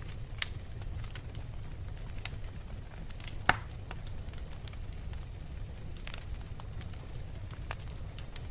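Wood logs burning in a fireplace: a steady low rumble of flame with scattered crackles and pops, the loudest a sharp snap about three and a half seconds in.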